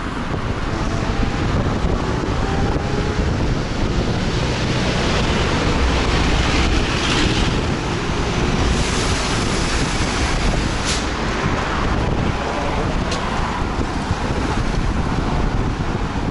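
Wind buffeting the microphone during a ride in the rain, a steady rushing noise, with a couple of short sharp ticks in the second half.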